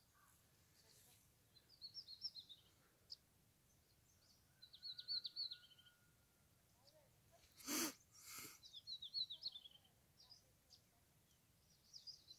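A small songbird repeating a short song phrase of rapid high notes, about a second long, four times a few seconds apart. About two-thirds of the way through come two short, loud bursts of noise half a second apart, the loudest sounds here.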